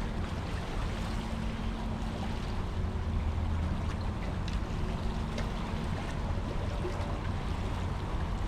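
Water lapping and sloshing against a fishing kayak's hull, over a steady low rumble.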